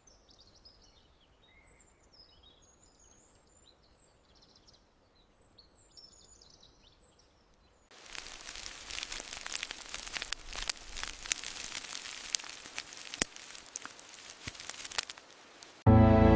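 Faint bird chirps, then about halfway in a louder crackling hiss full of sharp clicks takes over. Music comes in right at the end.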